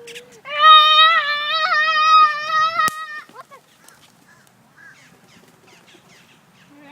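A person's long, high-pitched cry, held steady for about two and a half seconds from about half a second in, with a sharp click near its end.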